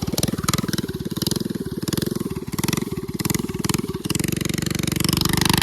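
Coleman mini bike's small single-cylinder four-stroke engine running under throttle with a fast, even firing beat, getting louder near the end.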